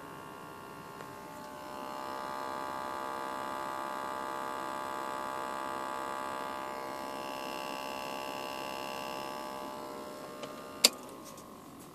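Steady electrical hum-whine from inside the dashboard of a 2005 Mazda 3, under the steering wheel, with the power on. It is made of many steady tones and grows louder about two seconds in. It is an unexplained fault noise that does not vary while the car is on, and the owner suspects the air conditioning. It fades near the end, with a single sharp click shortly before it ends.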